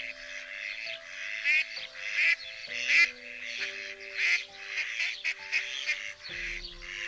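Ducks quacking in rapid, repeated rasping calls over calm background music with held tones.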